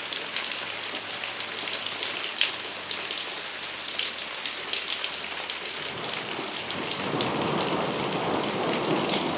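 Steady rain falling, with many small drop ticks over a constant hiss. About six seconds in, a fuller, lower rushing sound builds as the rain gets heavier or water starts to pour.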